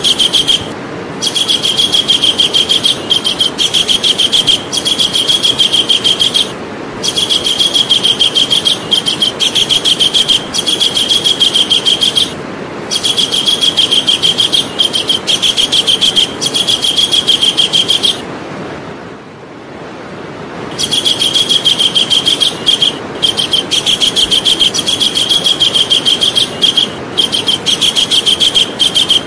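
Javan kingfisher calling: long runs of rapid, shrill repeated notes, each run lasting several seconds, broken by short pauses and one longer pause about two-thirds of the way through.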